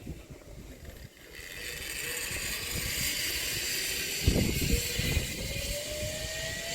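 Zip-line trolley pulleys whining as they run along the steel cable, the whine dipping and then slowly rising in pitch as the speed changes, with wind rushing over the microphone from about a second in and a brief low thump near the middle.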